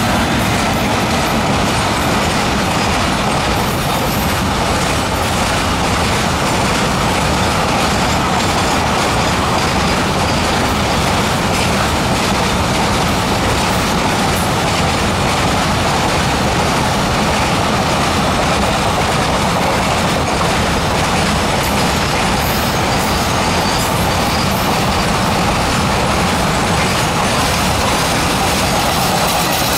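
Container freight train passing, wagon after wagon: a loud, steady rumble and rattle of wheels on the rails.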